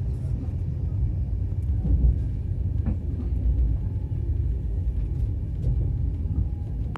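Steady low rumble of a railway coach, with a few faint clicks scattered through it.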